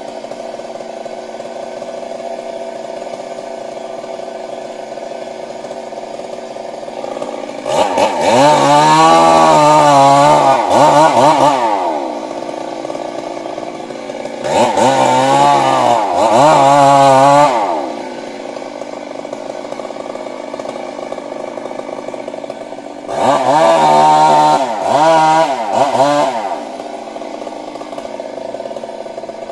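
Stihl MS 382 two-stroke chainsaw idling, then revved up to full speed three times for a few seconds each. During each burst the pitch wavers up and down before the saw drops back to idle.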